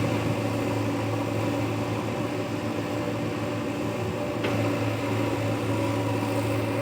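JCB backhoe loader's diesel engine running with a steady hum, a little louder from about four and a half seconds in.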